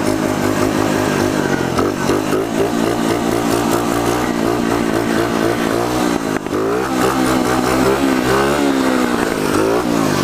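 Pitster pit bike engine revving hard in first gear, its pitch climbing and dropping again and again as the throttle is worked for wheelies. There is a long rising rev past the middle, which falls away a couple of seconds later.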